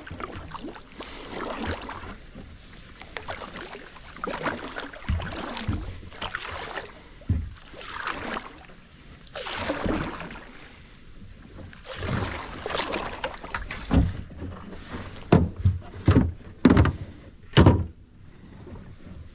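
Kayak paddle strokes swishing through the water every couple of seconds. Four sharp hollow knocks come near the end, like the paddle striking the hull.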